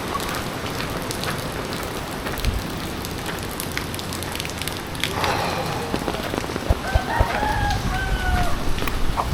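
Steady heavy rain pattering on surfaces, with a rooster crowing once in the second half, a drawn-out call that falls slightly at its end.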